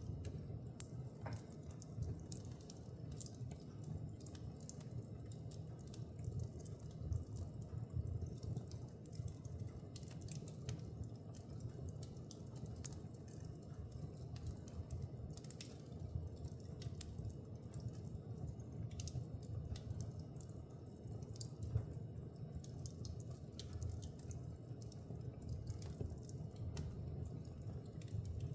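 Fire crackling in a fireplace: a steady low rumble of flames with frequent sharp, irregular pops and snaps.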